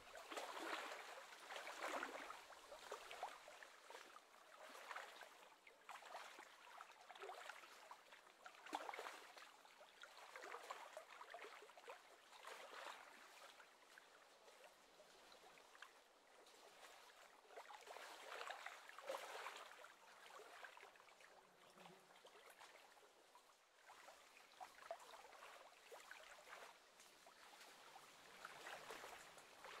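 Faint, irregular lapping and splashing of small wind-driven waves on lake water, swelling and easing every second or two.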